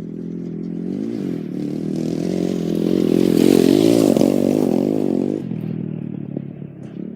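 Four-stroke 230 cc dirt bike engine revving, its pitch rising and falling with the throttle and getting louder to a peak about four seconds in. A little after five seconds the engine note drops away suddenly, leaving a rattling clatter.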